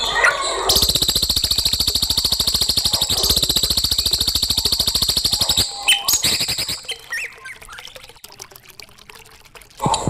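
Recorded songbird call played as masteran (training song for young birds): a fast, high, even rattling trill for about five seconds, then softer scattered chirps.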